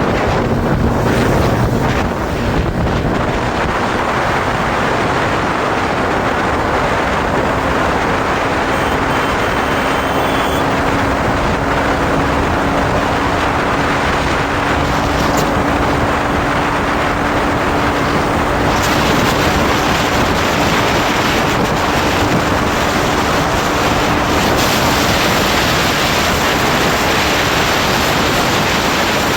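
Wind rushing over the microphone on a Hero Xtreme 125 motorcycle at speed. Under it the engine's faint hum climbs slowly in pitch over about twenty-five seconds as the bike accelerates toward its top speed, then fades into the wind.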